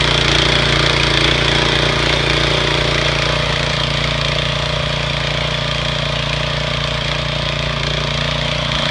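Small engine of a Choremaster cultivator running steadily at an even speed.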